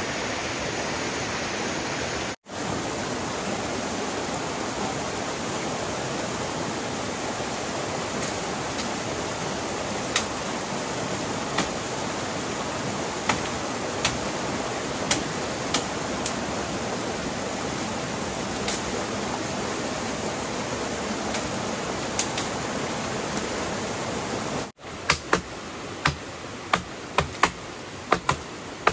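Steady rush of running water, with occasional sharp knocks from about ten seconds in. Near the end the rush drops away and a quicker series of sharp taps or knocks takes over.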